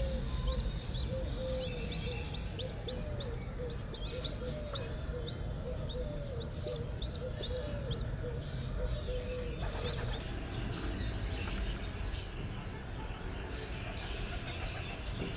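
Caged pet birds calling: a steady series of short, high chirps, about two a second, with short lower notes alongside, thinning out in the last third.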